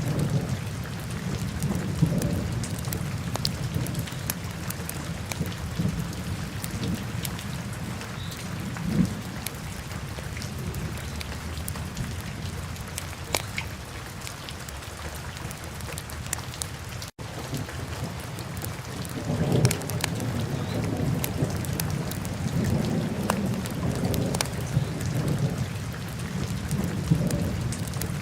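Wood fire burning in a fireplace: a steady low rumble that swells now and then, with scattered sharp crackles and pops. The sound cuts out for an instant at about 17 seconds in.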